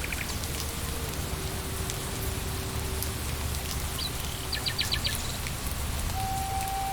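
Steady rain falling on leaves, with faint scattered drips. A bird gives a short, rapid trill about four and a half seconds in, and soft, long-held music notes sound faintly underneath.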